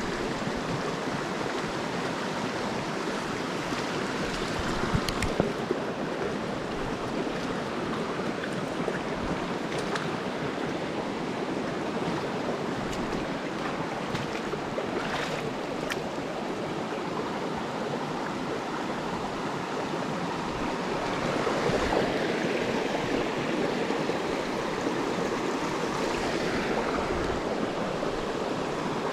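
Small mountain stream running over rocks, a steady rush of water, with a few faint clicks and a slight swell in the flow about two thirds of the way in.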